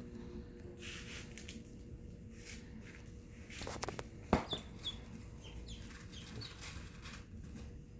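Golden 300 ducklings peeping: scattered short, high-pitched peeps that fall in pitch, over light rustling, with a sharp knock about four seconds in.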